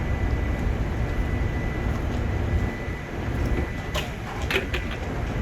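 Heavy machinery running with a steady low rumble and a thin, steady high whine that stops a little past halfway, then a few sharp metallic knocks near the end.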